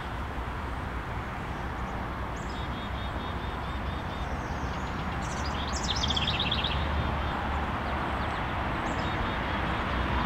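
A small songbird singing short, rapid trilled phrases three or four times, over a steady rushing background noise with a low rumble.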